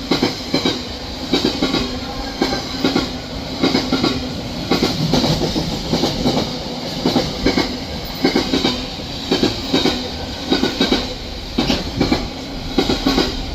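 Intermodal container freight train hauled by a Class 66 diesel locomotive passing at speed, its wagon wheels clacking over the rail joints in a steady, repeating run.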